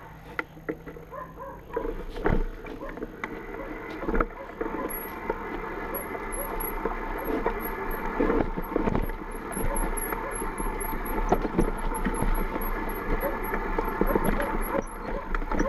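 Mountain bike rolling down a rough, rocky trail: a continuous rattle and clatter of the bike and tyres over stones, with many sharp knocks, and wind rushing over the camera microphone, growing louder as speed builds.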